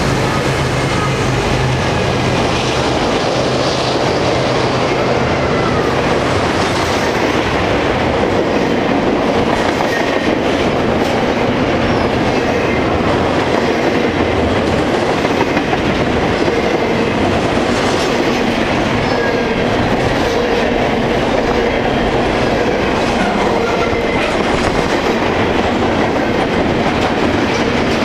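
Double-stack intermodal freight train rolling past at speed: a steady rush of steel wheels on rail with clickety-clack over the joints and faint thin wheel squeals. A low steady hum fades out about six seconds in.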